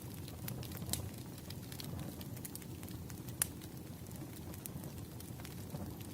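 Wood fire crackling: a low steady rumble of flames with irregular sharp pops and snaps, two of them louder, about a second in and past the middle.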